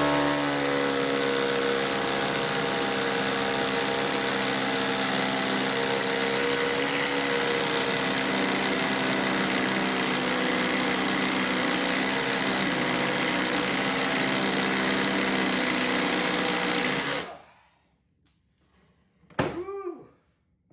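Huepar 20V brushless cordless SDS hammer drill running in hammer-drill mode, boring a large bit into brick at a steady pace for about seventeen seconds, then stopping abruptly.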